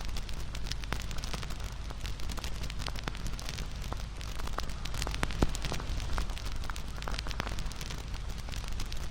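Wood campfire crackling: dense, irregular pops and snaps over a steady low rumble of the flames, with one louder pop about five seconds in.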